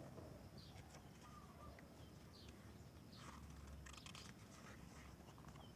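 Near silence with a few faint, scattered bird chirps.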